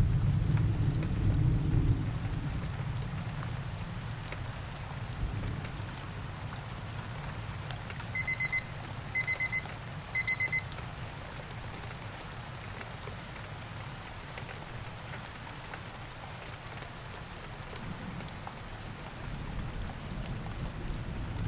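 Steady rain with low thunder rumbles. About eight seconds in, a digital timer beeps in three quick bursts of several short high beeps, marking the end of the break and the start of the next study session.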